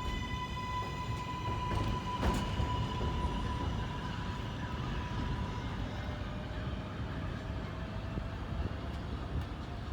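Kawasaki R188 subway train pulling out: its traction motors whine at one steady pitch with overtones over a low rumble of wheels on the track. A sharp clack comes about two seconds in. The whine fades about six seconds in as a lower tone slowly rises.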